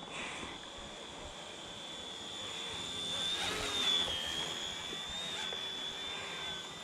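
Small electric RC helicopter hovering: a steady high motor and rotor whine, with a rushing swell and a brief dip in pitch about three to four seconds in. It is flying on a nearly flat battery, with the low-battery warning already flashing.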